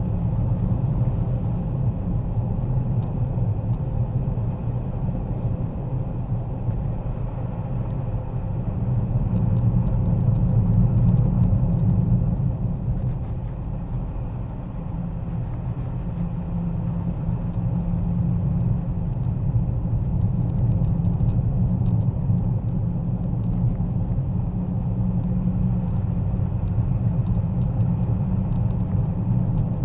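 Road and engine noise inside a moving car's cabin: a steady low rumble that swells about nine seconds in and eases a few seconds later.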